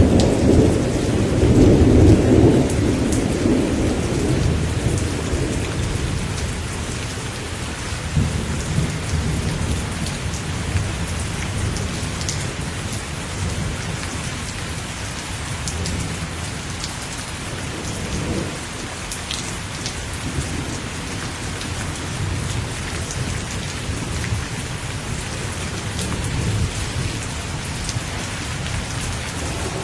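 Steady rain pattering, with thunder rumbling low beneath it. The rumble is loudest in the first couple of seconds, then fades to a softer roll that comes and goes.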